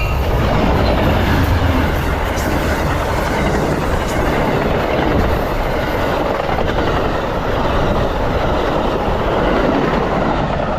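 Amtrak passenger train going past close by: a steady, loud rumble of wheels on the rails with rail-car clatter.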